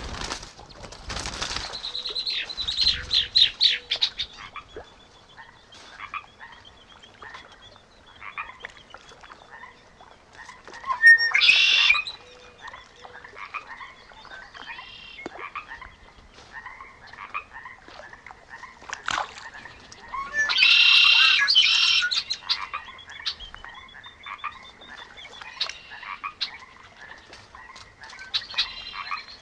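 Frogs calling in a chorus of short, repeated notes, with birds calling over them. A quick run of notes comes about two seconds in, and two louder, harsh calls stand out, one about eleven seconds in and one about twenty-one seconds in.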